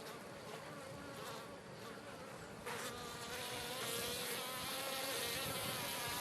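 Many honey bees buzzing around an open hive: a steady, dense drone that wavers slightly in pitch and grows louder about three seconds in.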